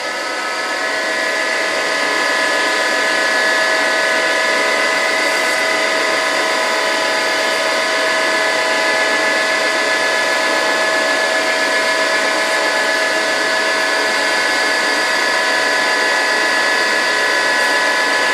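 A steady motor-driven machine running with a whine of several steady tones over a hiss. It builds up over the first three seconds, then runs evenly.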